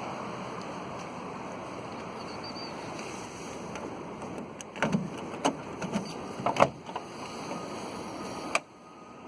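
Citroen Visa 11 RE running with a leaking exhaust, a steady noise, with a run of sharp knocks and clunks about halfway through. A loud thud near the end is followed by a sudden drop in the sound.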